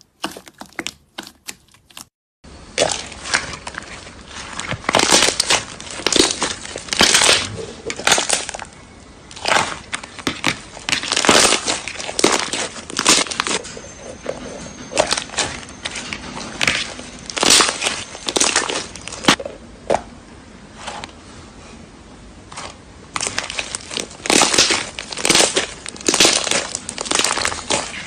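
Slime being squeezed and pressed by hand, giving irregular crackling and crunching pops in quick clusters. There is a short silence about two seconds in, then the crackling resumes.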